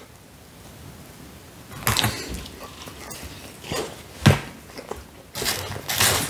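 Biting into a slice of Domino's Hawaiian pizza and chewing it close to the microphone. A first bite comes about two seconds in, followed by irregular chewing and mouth sounds with a loud knock a little past four seconds.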